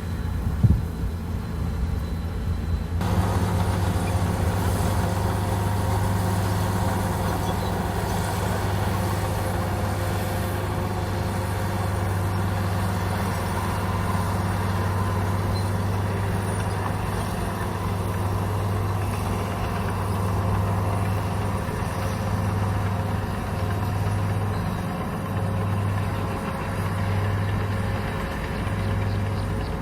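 Komatsu bulldozer's diesel engine running steadily, with a single sharp knock about a second in. From about three seconds in the engine sounds fuller, and near the end its low drone swells and fades about once a second.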